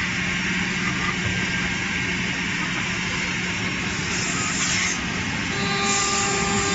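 CNC woodworking boring machine running: a steady motor hum under an even hiss.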